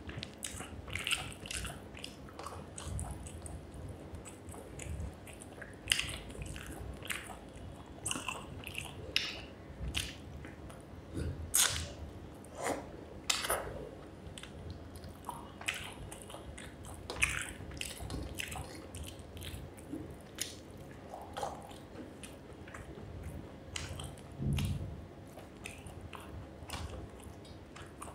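Close-miked eating sounds of rice with fish curry: wet chewing, lip smacks and irregular sharp mouth clicks, with a dull low thump late on.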